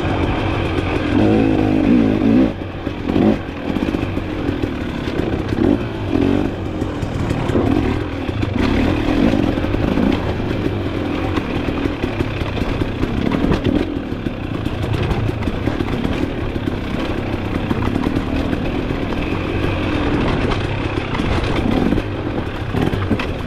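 Off-road dirt bike engine running and revving up and down while being ridden over rough ground, with scattered knocks and rattles.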